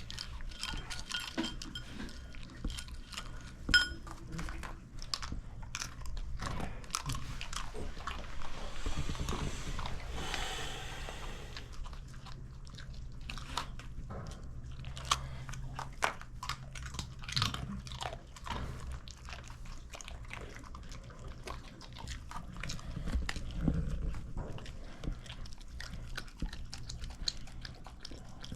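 Pungsan dogs eating, chewing and crunching their food with irregular crunches and clicks. A short hiss comes about nine seconds in.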